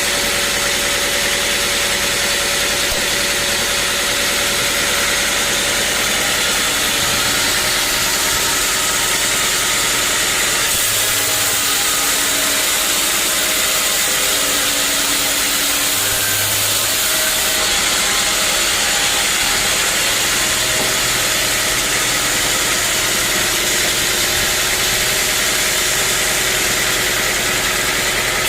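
Engine-driven sawmill running steadily and loudly, engine and blade together, with a change in the hiss about eleven seconds in and again near eighteen seconds.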